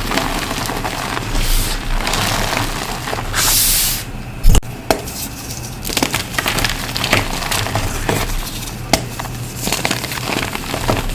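Re-formed gym chalk blocks being crushed, a run of crisp crunches and crumbles with one sharp snap about four and a half seconds in.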